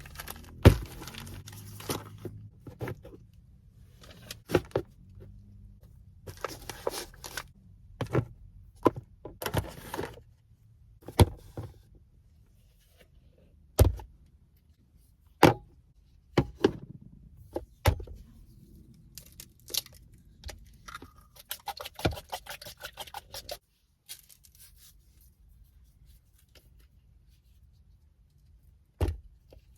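Kitchen-style handling while preparing bread batter: utensils, containers and packaging being set down, knocked and rustled, in scattered sharp clicks and knocks with short bursts of rustling. It is quieter after about three quarters of the way through, with one last knock near the end.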